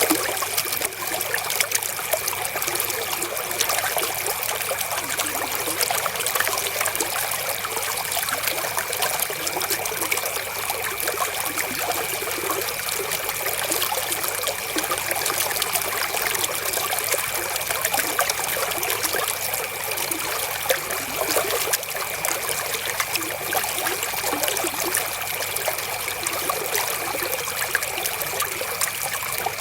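River water flowing and trickling steadily, with many small splashes and a faint, steady high-pitched tone underneath.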